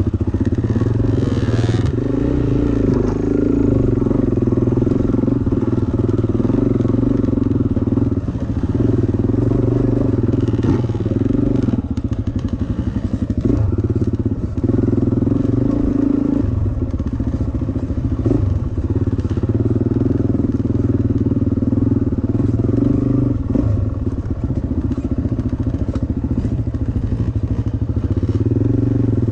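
Dirt bike engine running at low-to-middle revs as the bike is ridden up a steep off-camber trail, the revs rising and falling with the throttle. Occasional knocks and clatter come from the bike working over the rough ground.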